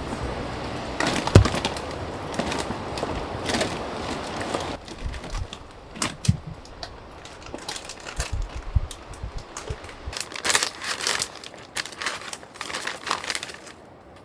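A run of irregular clicks, taps and crackles, over a steady hiss that drops away about five seconds in.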